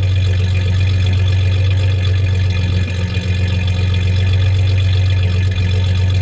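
A 1993 Ford Ranger's 3.0 L V6 engine idling steadily with a deep, even hum. It has a misfire in one cylinder that the owner is trying to trace.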